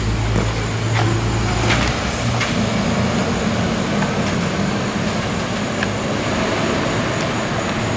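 Outdoor air conditioner condensing unit running: a steady low compressor hum under the rush of the condenser fan. The low hum drops away about two and a half seconds in, leaving an even fan rush.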